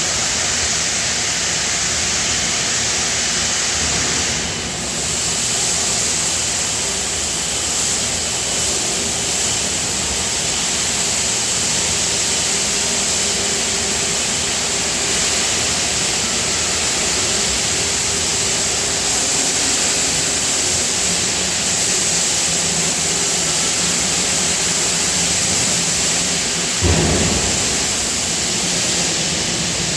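Steady, loud die-casting shop machinery noise: an even roar with faint humming tones underneath, and one short, low knock near the end.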